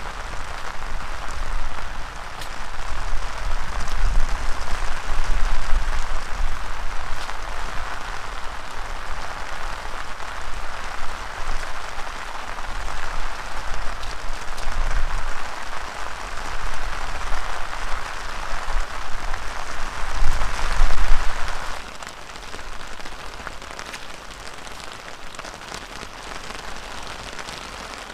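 Heavy rain pouring down in an even hiss, with low rumbling gusts of strong wind. About three-quarters of the way through, the sound drops suddenly to a quieter, steady rain.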